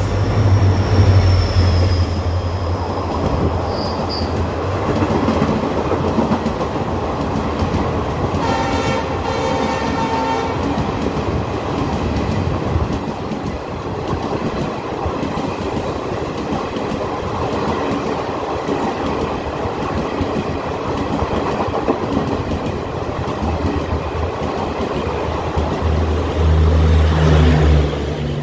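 WDP4 diesel locomotive (EMD two-stroke engine) running through a station at speed, its low engine drone loudest in the first couple of seconds, followed by a long rake of coaches rolling past on the rails. A train horn sounds for about two seconds around a third of the way in, and a low drone swells again near the end.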